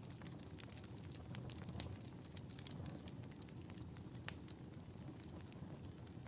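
Fireplace fire burning with a low rumble and scattered crackles, a sharper pop about four seconds in.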